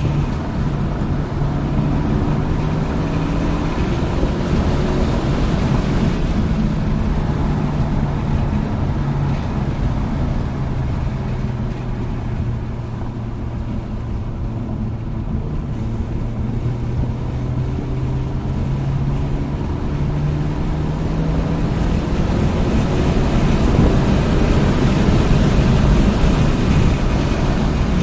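Hyundai Elantra N's turbocharged 2.0-litre four-cylinder engine at speed on a race track, with wind and road noise. The engine note rises and falls as the car accelerates and slows for corners. It is quieter through the middle and loudest under hard acceleration near the end.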